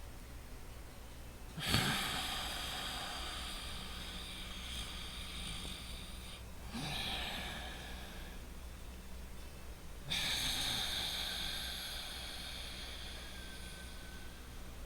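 Loud, deliberate breathing through the nose for tai chi relaxation: three hissing breaths, the first and last each about four seconds long and fading slowly, with a shorter one of about two seconds between them.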